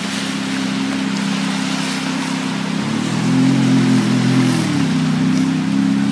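Ferrari F430 Spider's V8 engine running at low revs as the car rolls slowly, rising in pitch about three seconds in, holding briefly, then dropping back.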